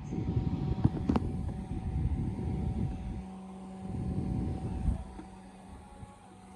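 Electric fan running with a steady motor hum, its air gusting onto the microphone as a low rumble for the first three seconds and again about four seconds in.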